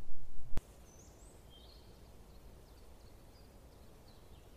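Faint birdsong in woodland: scattered short, high chirps and trills over a quiet background. It comes after a brief loud low rumble that cuts off abruptly about half a second in.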